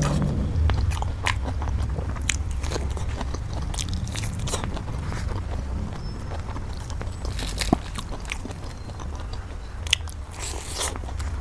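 Close-up biting and chewing of Monthong durian, with scattered short crunchy clicks and wet mouth sounds, over a steady low hum.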